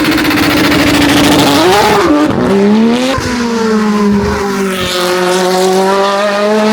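Hillclimb race car's engine running hard at high revs, holding a steady note. Around two and three seconds in its pitch drops and climbs in quick steps, then settles on a lower note that sags and slowly rises again.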